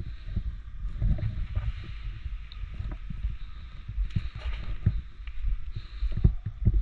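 Irregular low thumps and rumble of movement and handling noise on a camera microphone, over a faint steady hiss.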